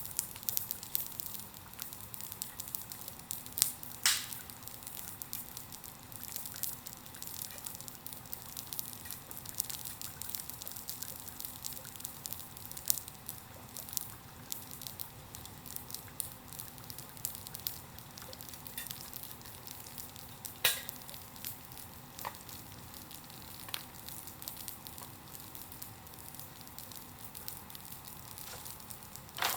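Bonfire burning with a steady hiss and constant crackling, and a few louder sharp pops, one a few seconds in and one about two-thirds of the way through.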